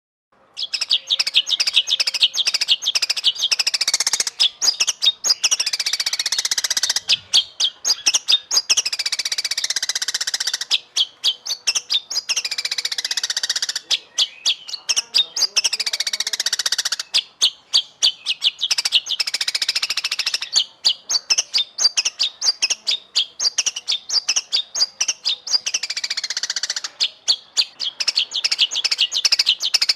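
White-rumped shama (murai batu) singing a long, fast, varied song of rapid trills, sharp repeated notes and falling whistled phrases, starting about half a second in and running in bouts with brief pauses.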